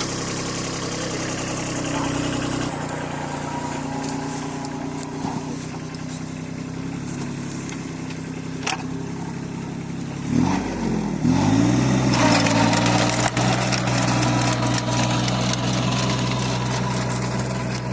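Kubota 21 HP compact tractor's diesel engine running steadily. About ten seconds in, its note dips and swings back up, then it runs louder and steadier.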